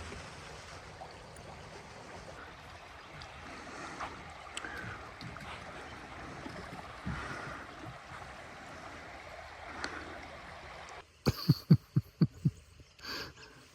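Steady rush of flowing creek water. About eleven seconds in it cuts off, and a quick run of about eight loud low thumps follows within about a second.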